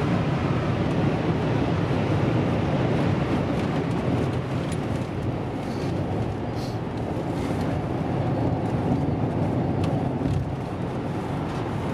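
Land Rover Discovery 3.0 V6 turbo diesel cruising flat out at about 190 km/h, held on its speed limiter: a steady mix of engine drone, tyre and wind noise.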